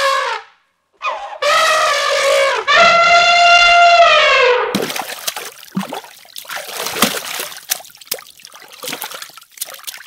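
Asian elephant trumpeting: a long, held call dies away just after the start, then two more long calls follow, the second higher and steadier and falling off at its end. From about five seconds in, a crowd of koi splashes and spatters at the water's surface.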